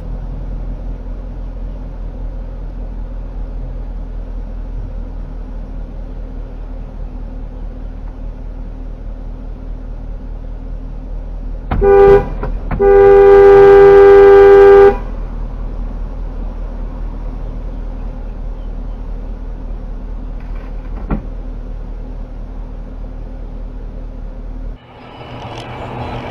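Two-tone car horn: a short toot, then a loud blast held for about two seconds, over the steady low drone of engine and road noise inside a moving car.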